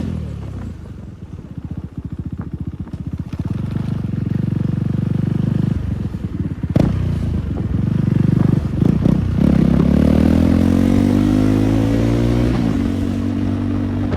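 KTM Duke 390 single-cylinder engine run with no exhaust fitted, loud and raw: it runs low and choppy, gives a sharp crack about seven seconds in, then revs up steadily for a few seconds before the pitch drops back.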